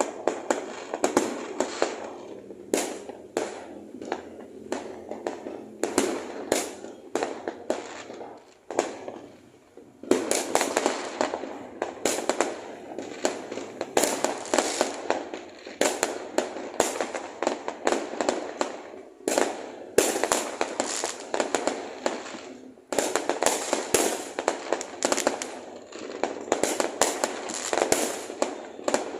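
Fireworks going off in rapid, overlapping bangs and crackles, with a brief lull about nine seconds in before they pick up again.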